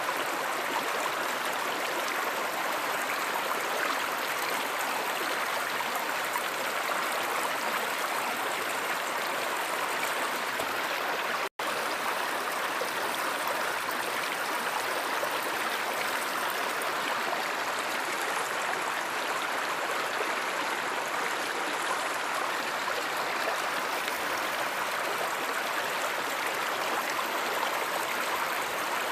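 Stream water running steadily over stones, an even rushing babble, with a momentary dropout to silence about eleven seconds in.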